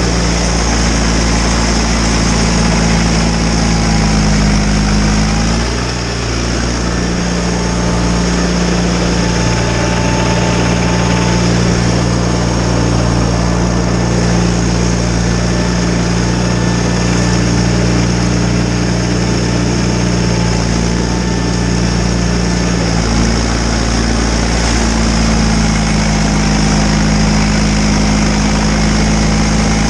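John Deere 318 garden tractor's two-cylinder Onan engine running steadily under load while driving a snowblower, its pitch dipping briefly about six seconds in and changing again near the end.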